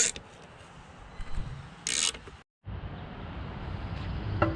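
Screwdriver work on a motorcycle muffler's shroud screws: two short scraping rasps about two seconds apart. After a brief cut to silence comes a steady low hum, with a few sharp clicks near the end.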